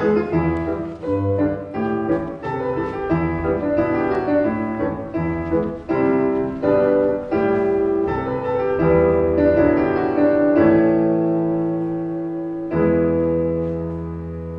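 Piano music: a flowing passage of many quick notes, then two chords held to ring out, the second struck near the end and slowly fading.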